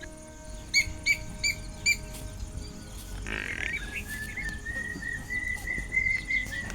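Birds calling and chirping: four short, clear notes about a second in, then a long run of rapid notes from about three seconds in, over faint scattered chirps.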